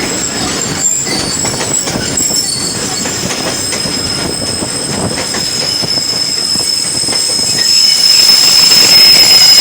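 Passenger train's steel wheels squealing against the rails: a steady high-pitched squeal over the rumble of the moving coaches, growing louder over the last couple of seconds.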